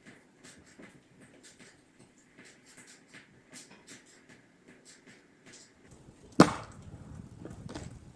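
Faint scratchy rustling and light ticks, then, about six seconds in, one loud axe strike splitting a firewood log, followed by a smaller knock near the end.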